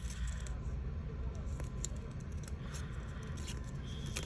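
Light rustling of card and paper with many small, irregular clicks as model pieces are handled and worked free of a diorama sheet, over a steady low rumble.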